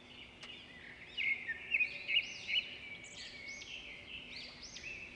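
Birds chirping, many short arching notes overlapping, louder between about one and two and a half seconds in.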